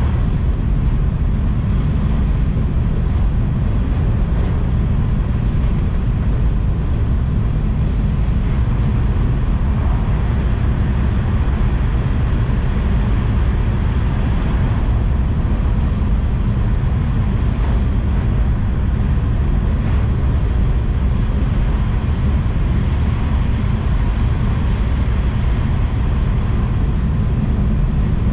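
Tohoku Shinkansen train running at speed, heard from inside the carriage: a steady, loud low rumble with a hiss over it.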